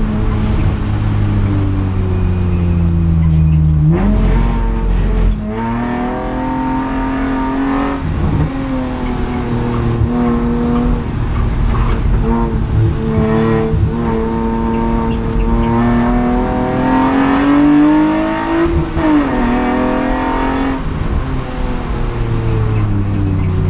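Race car engine heard from inside the cockpit, its revs rising and falling with the gear changes. The revs sink for the first few seconds, jump and climb through a gear change, hold fairly steady, climb again, then drop sharply near the end as the car lifts off.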